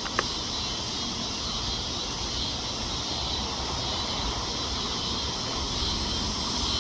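Steady outdoor background noise with faint insect chirring high above it.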